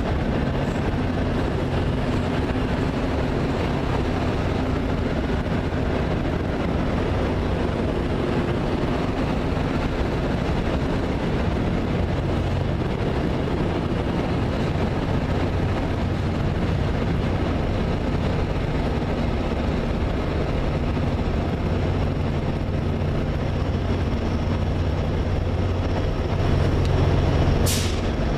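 A diesel train locomotive's engine runs with a steady low drone. A brief sharp noise comes about a second before the end.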